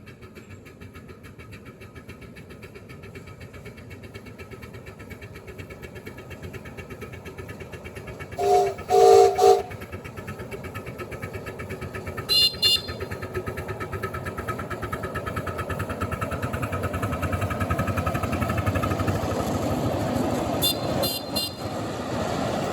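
A 5-inch gauge miniature railway train running with a fast, even beat that grows steadily louder as it approaches. About a third of the way in, its whistle gives about three loud short blasts. Shorter, higher-pitched toots follow twice.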